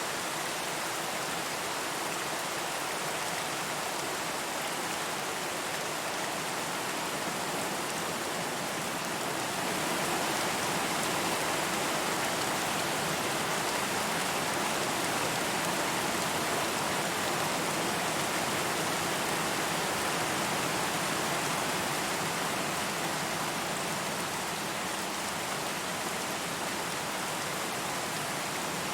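Steady rain falling, an even hiss of drops, swelling slightly for a stretch in the middle.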